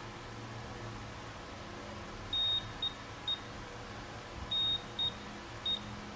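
Short high-pitched beeps from a digital multimeter's buzzer, in two groups of three: one longer beep followed by two short ones. A steady low hum runs underneath.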